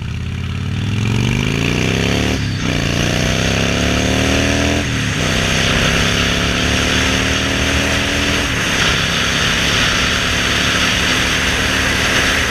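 Motor vehicle engine accelerating through the gears, its pitch climbing and then dropping at each of three upshifts, over steady wind and road noise.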